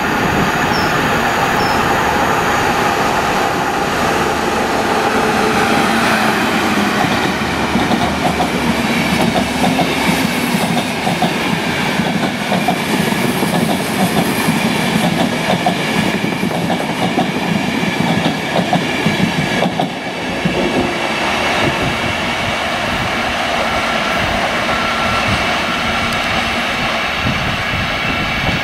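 Enterprise passenger train hauled by a Class 201 diesel locomotive passing at speed: the locomotive's engine running and the coaches' wheels clattering over the rail joints. About twenty seconds in the sound changes abruptly to a quieter diesel multiple unit approaching.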